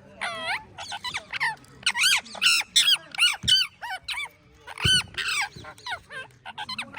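Parrots calling: a rapid string of short, shrill chirps and squawks, each sweeping up or down in pitch, some overlapping.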